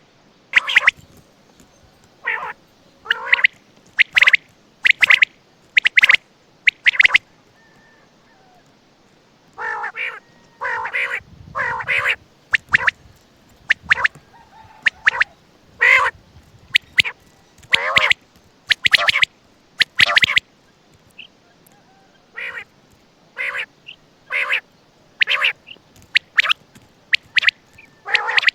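Quail (Coturnix) calling over and over in short, sharp notes. Most come singly, about half a second to a second apart, with quick runs of two or three about a third of the way in.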